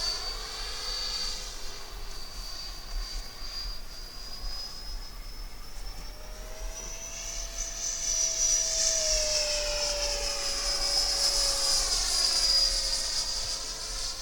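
Model jet with an electric ducted fan flying past, a steady high-pitched whine that rises in pitch and gets louder from about halfway through, then eases back down.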